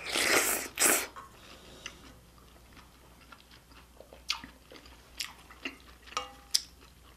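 Close-miked eating of spicy beef soup with rice: two loud mouth noises in the first second, then quiet chewing with scattered wet clicks and smacks.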